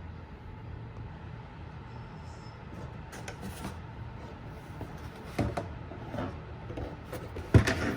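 Light handling noises: scattered faint taps and clicks as a lexan RC car body is handled and set down, with a sharper knock near the end.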